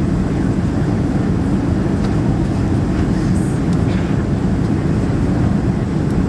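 Steady low rumble of airflow and engines inside the cabin of a Boeing 767-300 in flight.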